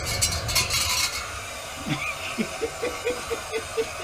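Metallic clinking in the first second over a low rumble that fades out, then a short rhythmic laugh of about seven quick pulses.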